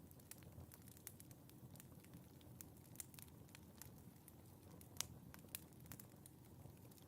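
Quiet wood fire crackling in a fireplace: scattered sharp pops and snaps over a low, soft rumble of the flames, with one louder pop about five seconds in.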